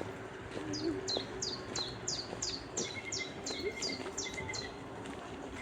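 A songbird singing a run of about a dozen high notes, each sliding downward, about three a second.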